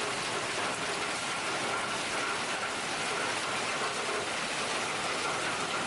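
Hail falling steadily, a dense, even patter of small hailstones.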